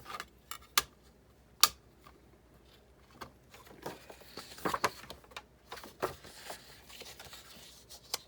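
Scattered clicks, knocks and light clatter of the parts of a manual die-cutting machine being handled and fitted by hand, with one sharp knock a little over a second and a half in.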